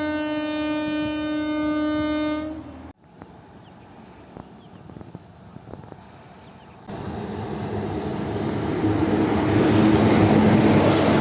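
Train horn sounding one steady blast for about two and a half seconds, then after a cut a quieter stretch with scattered clicks, and from about seven seconds in the loud rumble of a train running past, growing louder.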